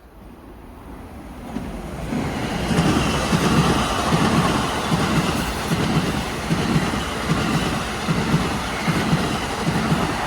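New Jersey Transit commuter train running through the station, its wheels clicking over the rail joints in a steady rhythm. It grows louder about two seconds in.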